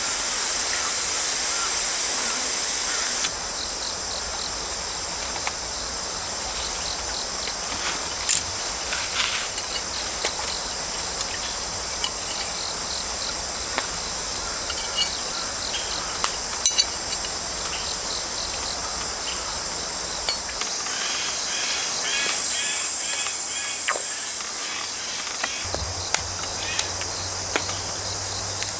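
Crickets and other autumn grass insects chirring in a steady high trill, with short pulsed chirps joining near the end and a few sharp clicks scattered through.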